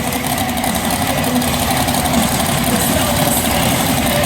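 Monster truck engines running at idle, a steady low throbbing rumble.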